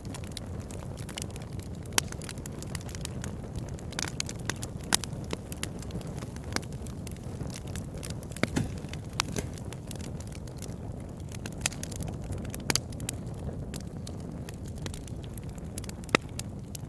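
Wood campfire burning with a steady low roar of flames and irregular crackles and snaps, a few sharper pops standing out among them.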